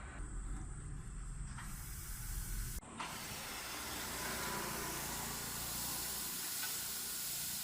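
Street sweeper truck working: a low rumble for about three seconds, then an abrupt change to a steady, loud hiss.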